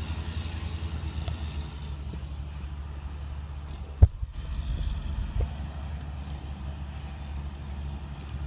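Heavy tractor engine running with a steady low rumble; a single sharp thump about four seconds in.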